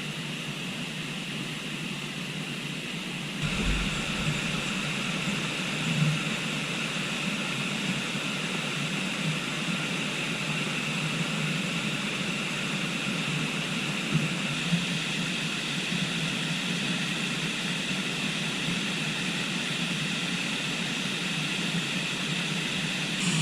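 Steady rush of river water flowing, a continuous noise that gets a little louder about three and a half seconds in.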